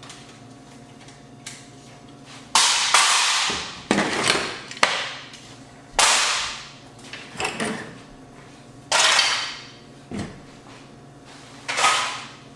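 Parts of a dismantled AV receiver being picked up and set down on a work surface: a series of about eight clatters and scrapes, each dying away within a second.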